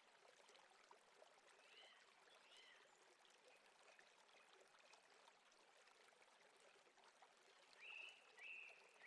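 Faint nature recording of a stream running steadily, with a bird calling over it. There are a few short falling chirps about two seconds in, and near the end a run of repeated calls that rise and then hold.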